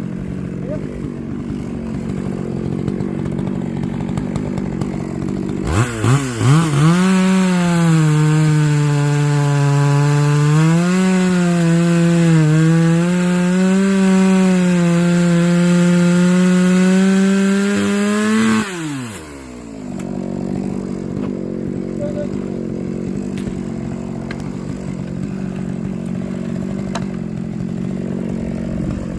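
Chainsaw sawing through a thick log: about six seconds in it revs up and cuts for about thirteen seconds, its pitch sagging and recovering under load, then it lets off. A steady engine hum runs underneath throughout.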